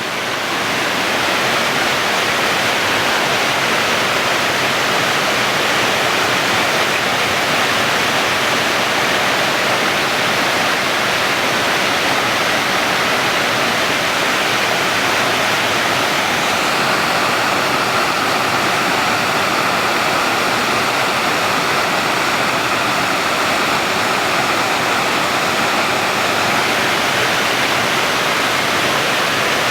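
Waterfall: a steady, loud rush of falling water, its tone shifting slightly about halfway through.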